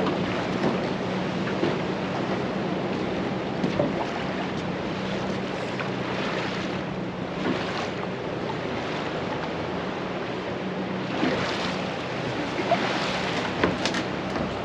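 Boat motor running steadily on open water, with wind buffeting the microphone and waves washing and splashing, swelling a few times.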